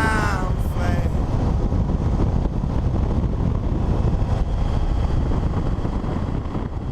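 Suzuki V-Strom 650 motorcycle underway: a steady rush of engine, road and wind noise on the microphone, heaviest in the low end.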